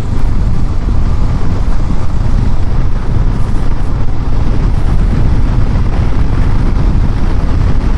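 Wind rumbling steadily on the microphone of a motorcycle rider on the move.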